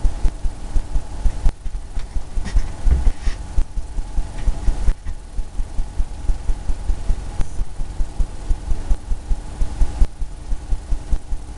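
Paintbrush dabbing against a canvas, a rapid, irregular run of dull thumps, several a second, as white paint is stippled on for breaking waves.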